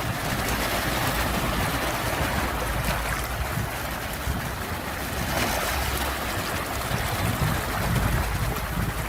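Sea surf: a continuous rush of breaking waves that swells and eases, with a low rumble underneath.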